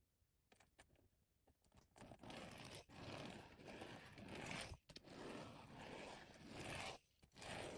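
A few light clicks, then from about two seconds in, faint scraping and rubbing in repeated stretches of about a second, from a plastic toy truck being handled and moved over a surface.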